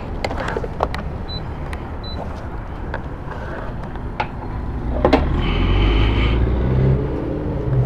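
Gas station fuel pump sounds: handling clicks and two short high beeps, as from the pump's keypad. About five seconds in, a low engine-like rumble swells up underneath.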